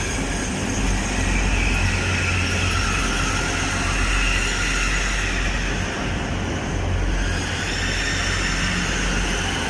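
Grand Central Class 180 diesel multiple unit arriving and running in slowly alongside the platform: a steady diesel rumble with a faint high whine that drifts gently in pitch.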